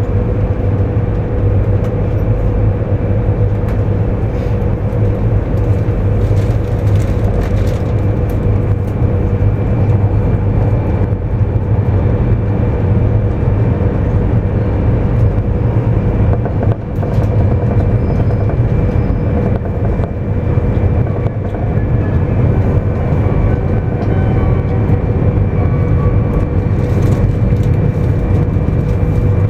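Interior running noise of a JR East 200 series Shinkansen at speed: a loud, steady rumble from the wheels and track with a constant hum held on one pitch throughout.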